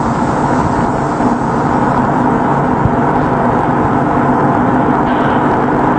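Machinery running with a steady drone that holds several constant tones.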